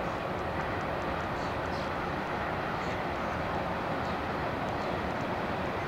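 Norfolk Southern freight train rolling past: a steady rumble and rattle of steel wheels on the rails.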